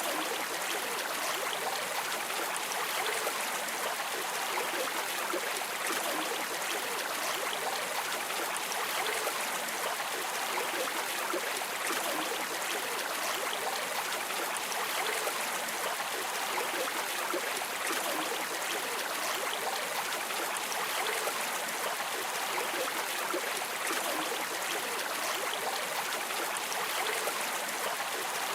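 Stream water running, a steady, even rushing with no pauses.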